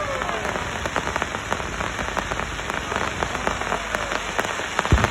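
Crackling fireworks: a dense, steady patter of many small pops like rain, with a whistling firework fading out at the start and a deep bang right at the end.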